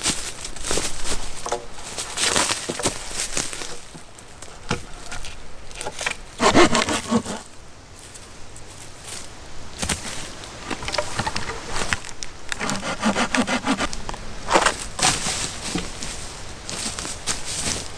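Dry deadwood being handled and worked by hand: irregular cracks and rasping scrapes of branches, with a few longer grating strokes.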